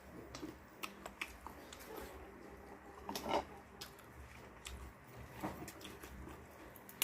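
Chewing and eating sounds, with scattered small clicks and smacks and a louder bite a little over three seconds in.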